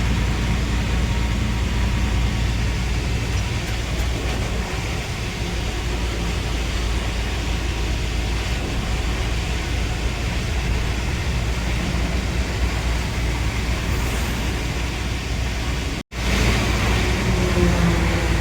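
Heavy diesel engine running steadily with a deep low hum. The sound drops out for an instant about sixteen seconds in, then carries on.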